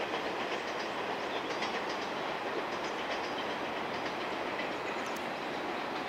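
Distant KiHa 47 diesel railcar train running along the line: a steady running noise with a few faint clicks of wheels over rail joints.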